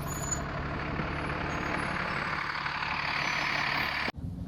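A large vehicle's engine running steadily, with a rushing hiss that grows louder, cut off abruptly about four seconds in.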